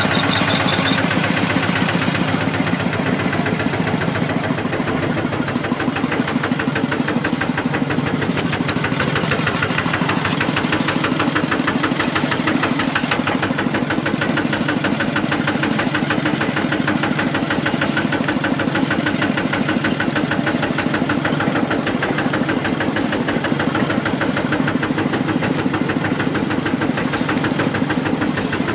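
E-Tak Thai farm tractor's single-cylinder diesel engine running steadily under way, a rapid, even chugging knock.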